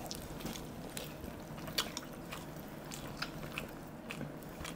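A man chewing a large mouthful of masala boiled eggs, close to the microphone, with frequent irregular wet clicks and smacks of the mouth.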